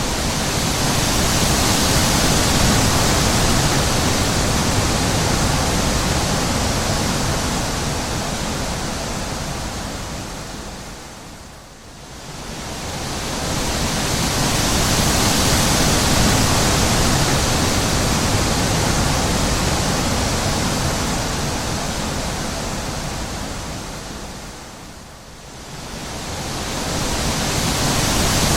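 Wind blowing: a steady rushing that swells and then dies away almost completely twice, about midway through and again near the end, building back up each time.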